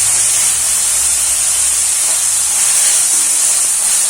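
Onion, tomato and ginger-garlic paste sizzling steadily in hot oil in a kadai as they sauté.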